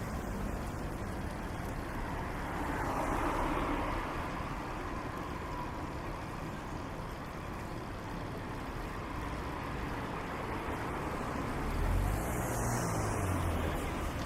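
City street traffic: a steady hum of road vehicles, with one vehicle swelling past about three seconds in and another near the end.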